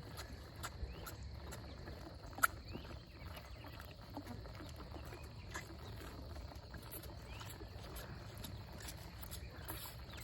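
Cattle feeding close by: scattered small clicks and knocks over a low rumble, with one sharp click about two and a half seconds in.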